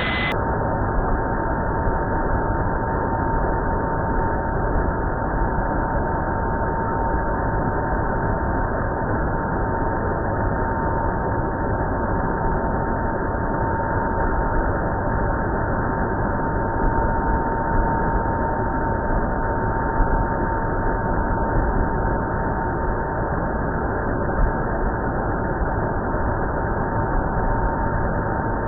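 Belarus MTZ-892 tractor's four-cylinder diesel engine running steadily under load, with a thin steady high tone over the engine noise.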